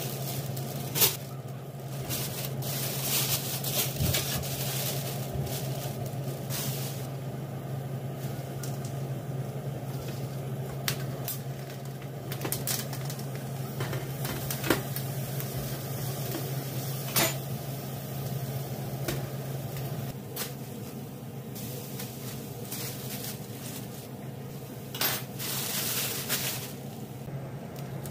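Kitchen work: scattered clinks and knocks of dishes and utensils, with a few short hissing stretches, over a steady low hum.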